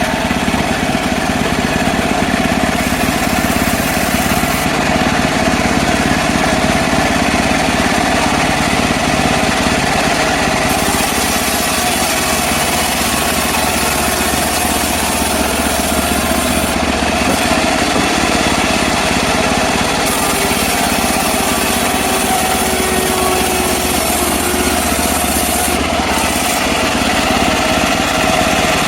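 Engine-driven portable bandsaw mill running steadily at working speed, a continuous engine-and-blade noise with no pauses.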